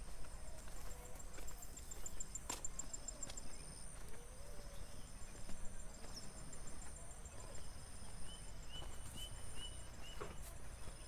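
Field insects keep up a steady high-pitched drone with rapid pulsing trills, and a bird gives five short chirps in a row near the end. Soft footsteps on the path fall underneath.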